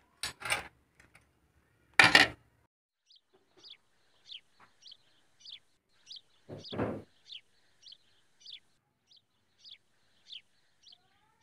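Birds chirping: short, high chirps that drop in pitch, repeated about twice a second. A few sharp knocks come in the first two seconds, and a louder thump comes about two-thirds of the way through.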